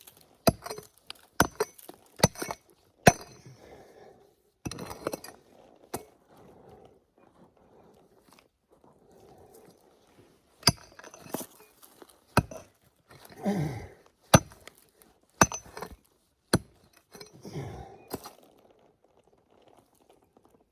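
A metal digging tool striking and scraping into hard clay and stones: over a dozen sharp clinking hits at irregular intervals, with scraping between some of them and a lull in the middle.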